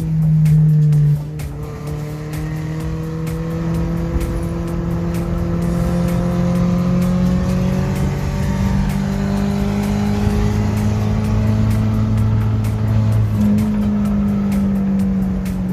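Toyota 3SZ 1.5-litre DOHC four-cylinder engine in a VW bay-window van running, its pitch drifting slowly up and down with engine speed.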